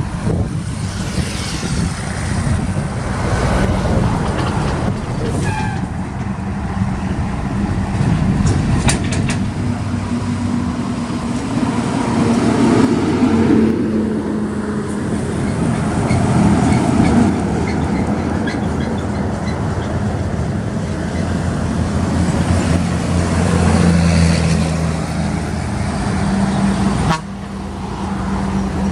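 Diesel trucks running on the road, with engine and road noise and a truck horn sounding long toots. The sound drops suddenly about 27 seconds in.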